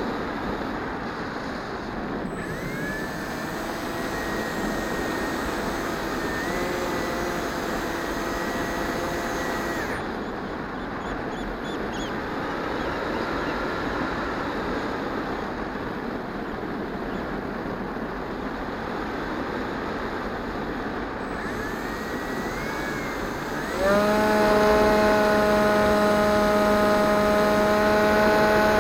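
EasyStar 2 model plane's electric motor and propeller, over a steady rush of air. A motor whine holds at part throttle for several seconds early on, then fades. Near the end it starts again suddenly and settles into a louder, steady drone as the throttle is opened.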